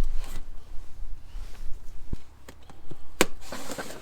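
Scattered knocks and clicks as front brake parts are handled, with one sharper click about three seconds in, over a low rumble.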